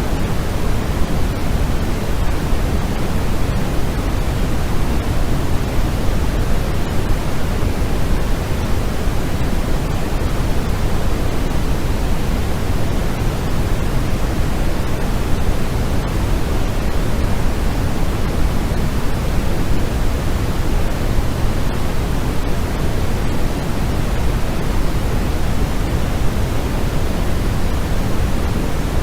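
Steady white-noise track for sleep, an even unchanging hiss weighted toward the low end.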